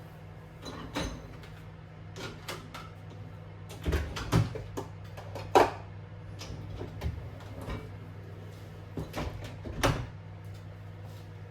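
Kitchen handling sounds: irregular light knocks and clicks of dishes, utensils and cupboards being handled, the loudest about halfway through, over a steady low hum.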